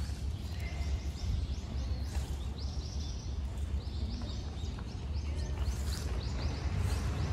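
Small birds chirping in several quick runs of short, high calls over a steady low outdoor rumble.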